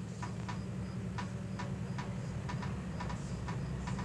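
Freight train standing still overhead: a steady low hum with irregular light metallic ticks, two or three a second.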